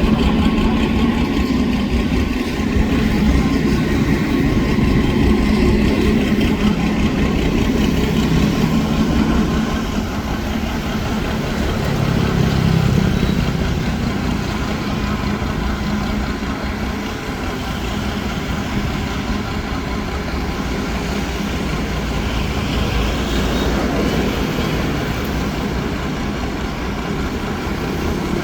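Engine of a homemade mud suction boat running steadily with a low hum, easing slightly in level about ten seconds in.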